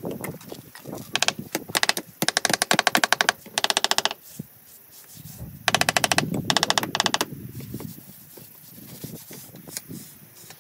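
A power tool hammering in several short bursts of very fast, even clicks, each lasting about half a second to a second.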